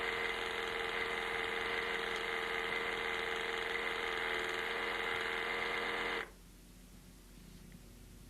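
Rx Honing System 2 dental honing machine running steadily with a whine, its motor spinning the hone; the sound stops suddenly about six seconds in.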